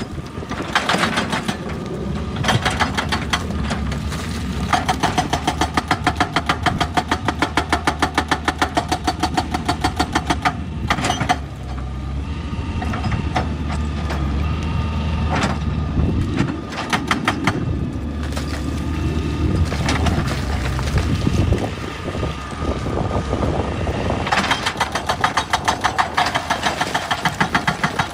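Excavator-mounted hydraulic rock breaker hammering stone in rapid, even blows over the diesel engine's drone. The hammering breaks off twice, leaving the engine running alone, and briefly revving in the longer pause. It starts again near the end.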